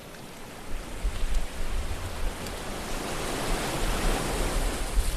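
Water rushing and washing, with wind buffeting the microphone in low rumbling gusts. The hiss of the water swells in the middle and eases near the end.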